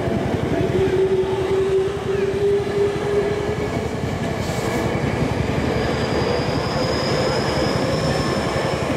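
Electric commuter train passing close by at a level crossing, wheels running over the rails, with a high thin wheel squeal over the second half. The crossing's warning bell keeps ringing over the train.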